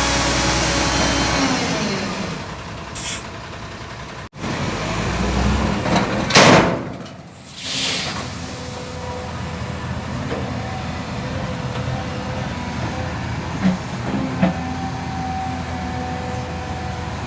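Heavy dump truck's diesel engine running steadily, with a short loud hiss about six seconds in.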